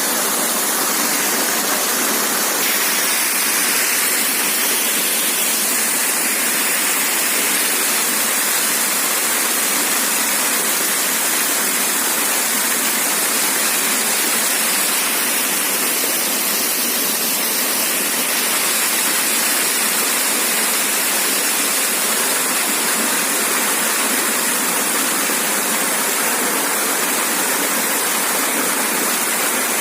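Waterfall running steadily: a constant rush of falling water, mostly hiss with little low rumble.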